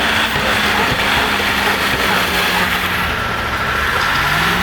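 A heavy vehicle's engine running steadily over a loud rumble, its pitch dipping briefly and then rising again near the end.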